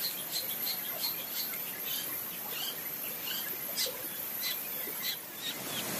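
Small birds chirping in quick, irregular short high notes over a faint steady rush of water.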